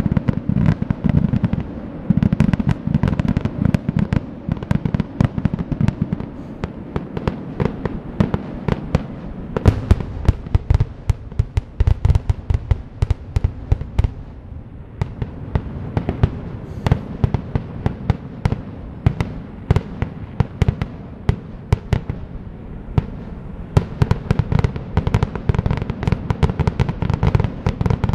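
Aerial fireworks display: a rapid, unbroken barrage of bangs and cracks, many each second.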